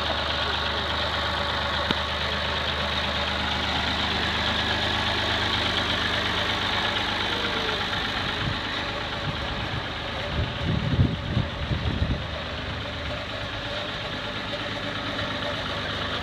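Farm tractor engine running steadily, with a few louder low thumps about ten to twelve seconds in.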